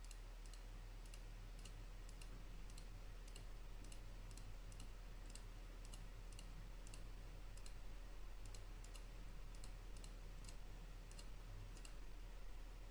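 Faint, sharp clicks repeating about two to three times a second over a low, steady electrical hum.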